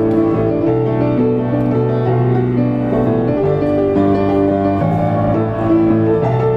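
Diapason grand piano being played: sustained chords with a melody moving over a held bass line.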